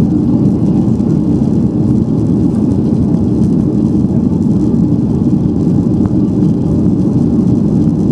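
Steady, loud cabin noise of a Boeing 737-800 with CFM56-7B engines, heard from inside the passenger cabin: a dense, even low rumble of engines and airflow with no change in pitch or level.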